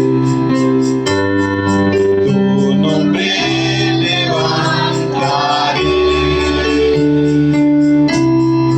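Worship music on an electronic keyboard: sustained organ-like chords over a steady bass line, with a voice singing a bending, held phrase in the middle.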